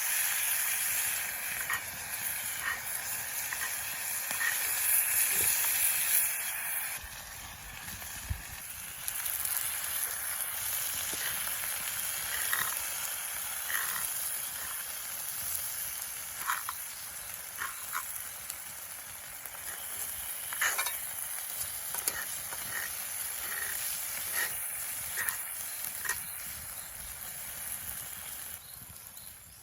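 A thick beef steak sizzling in a pan over a campfire, with scattered sharp pops and spits. The sizzle eases off about seven seconds in and fades near the end.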